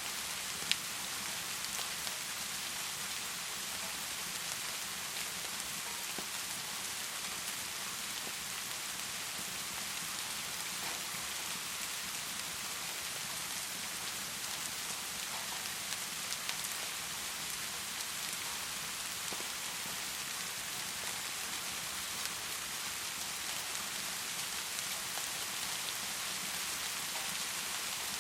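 Heavy rain falling steadily, an even hiss of drops. A single sharp click stands out about a second in.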